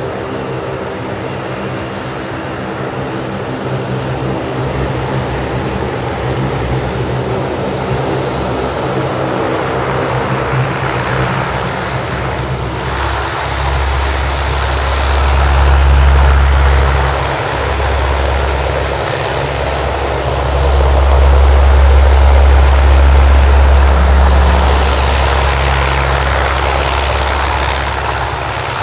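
C-130 Hercules four-engine turboprop running at takeoff power: a steady propeller drone with a heavy low hum, swelling loudest about halfway through and again later on.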